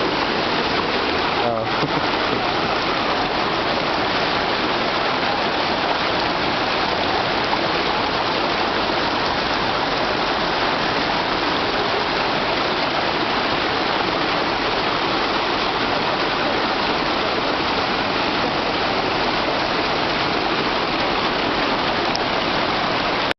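Steady rush of spring water spilling down a small waterfall at the Mount Shasta head spring, with a brief faint sound about a second and a half in.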